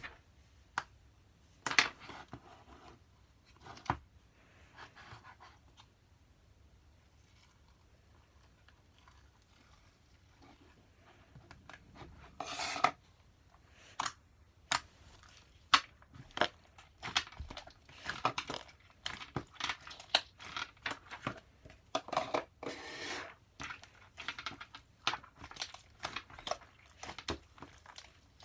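Irregular crinkling, rustling and clicking handling noises, a few scattered ones at first, then coming thick and fast from about halfway on.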